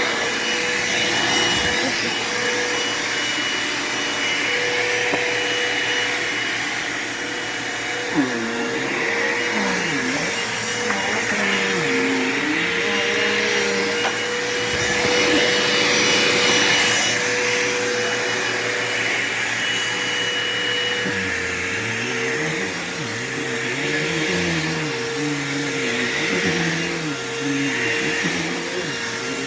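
Bissell PowerForce bagless upright vacuum (model 6579-2) running steadily over carpet, with a constant motor whine over a rushing hiss. Its lower tones waver up and down in pitch from time to time.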